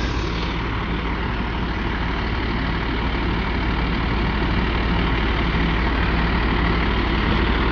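A motor vehicle's engine running steadily, a low hum over a broad even noise.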